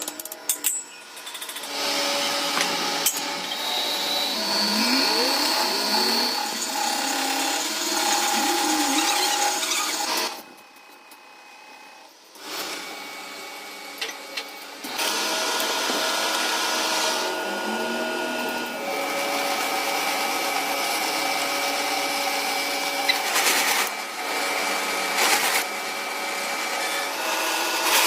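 A workshop power tool or machine running with a steady whine of several tones, some of them gliding up in pitch. It drops away for a couple of seconds about ten seconds in, then starts again.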